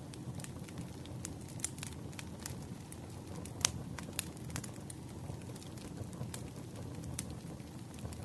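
Wood fire burning, with a steady low rumble and irregular crackles and pops; one sharper pop a little before halfway.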